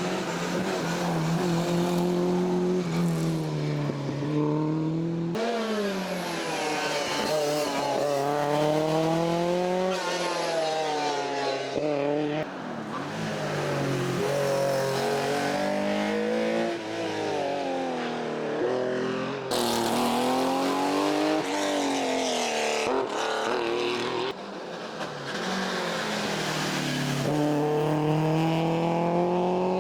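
Rally car engines revving hard and shifting up through the gears, the pitch climbing and dropping again and again as several cars drive past in turn.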